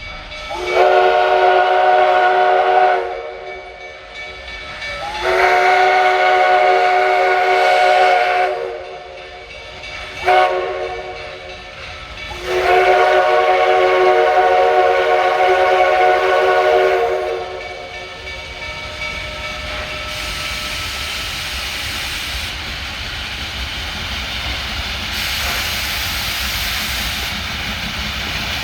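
Steam locomotive's chime whistle blowing three long blasts and one short one in the pattern long, long, short, long, the signal for a road crossing. After the last blast comes a steady hiss of steam as the train runs on.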